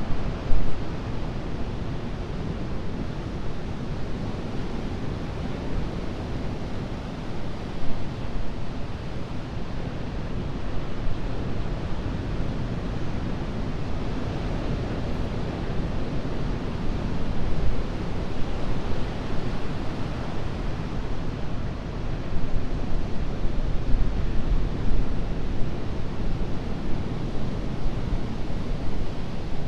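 Ocean waves breaking and washing ashore as a continuous surf rush, swelling louder in the second half.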